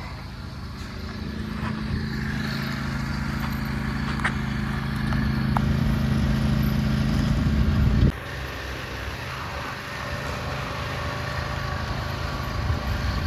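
A motor vehicle's engine running steadily, growing louder over about eight seconds, then dropping off suddenly.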